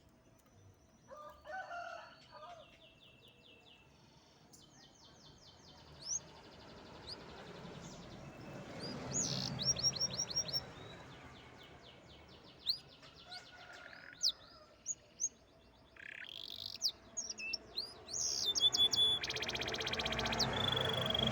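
Canary singing: phrases of fast trills and repeated sweeping whistled notes, coming in bursts and growing loudest and densest near the end.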